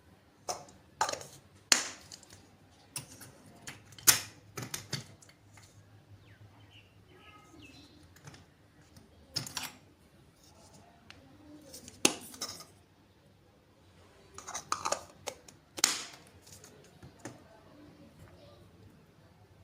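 Small hard objects handled and set down on a work surface: irregular sharp clicks and taps in several clusters, with quiet gaps between them.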